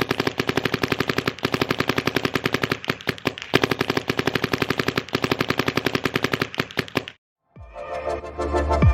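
Smart Parts Shocker RSX electropneumatic paintball marker firing a fast, even string of shots, roughly a dozen a second, for about seven seconds. The firing stops suddenly, and after a short gap electronic music starts near the end.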